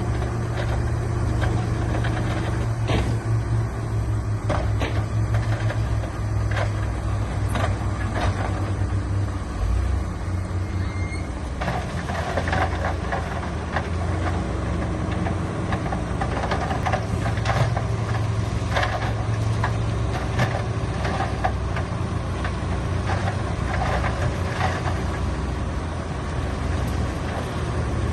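Heavy diesel construction machinery running steadily, with frequent knocks and clatter over the engine drone.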